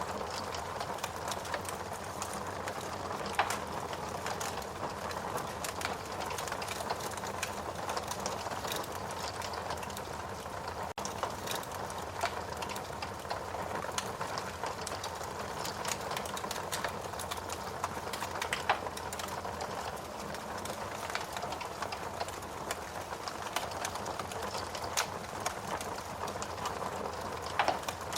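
Fire burning in a fireplace: a steady hiss with constant small crackles and a few louder pops.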